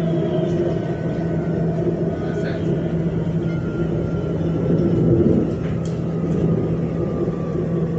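Cabin noise of a Namo Bharat rapid-rail electric train running: a steady low hum and rumble, with a faint whine that slowly falls in pitch and a few light clicks.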